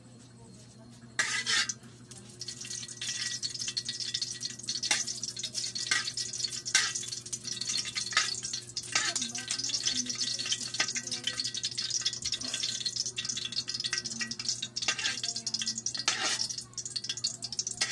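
Food going into hot cooking oil in a pan: a sudden loud sizzle about a second in, then steady frying sizzle with a utensil scraping and clinking against the pan.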